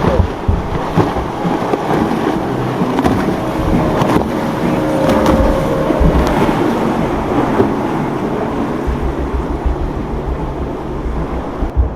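Motorboat engines running, mixed with wind buffeting the microphone.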